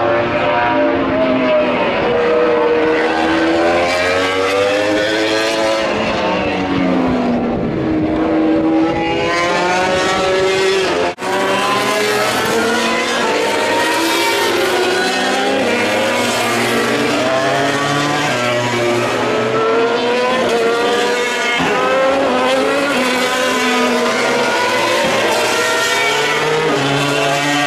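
MotoGP racing motorcycle engines at high revs, the pitch climbing and falling again and again as the bikes accelerate and brake through the gears. The sound breaks off for a split second about eleven seconds in.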